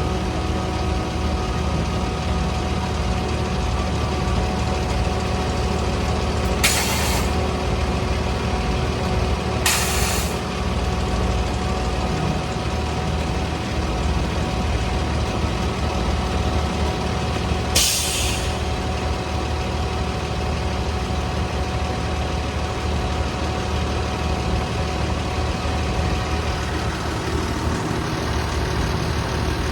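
Jet fuel truck's engine running steadily with its PTO fuel pump engaged, a constant low hum. Three short sharp hisses of released air cut in about 7, 10 and 18 seconds in.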